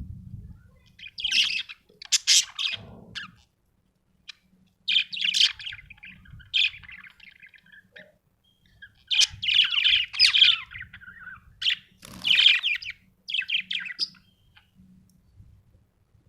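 Budgerigar chirping and warbling in four bursts of quick high chirps, each a second or two long, with short pauses between.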